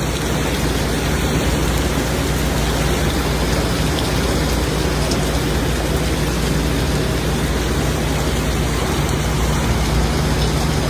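Heavy rain pouring, a steady dense hiss with a deep rumble underneath.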